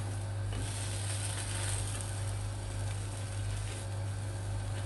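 French toast frying in butter in a flat pan: a steady sizzle, strongest from about half a second in to near the end, with a metal spatula clicking against the pan now and then. A steady low hum runs underneath.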